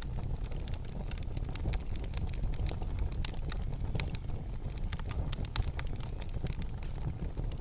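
Campfire crackling: many irregular sharp pops and snaps of burning wood over a steady low rumble.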